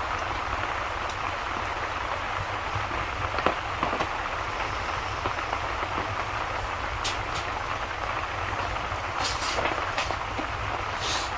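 Rain and fireplace ambience: steady rain over a low rumble, with a few scattered sharp crackles from the fire.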